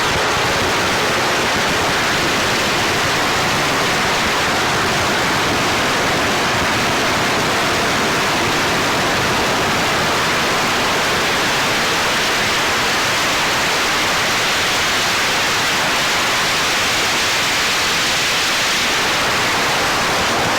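A long string of firecrackers going off at close range, the cracks so dense that they merge into one steady wash of noise.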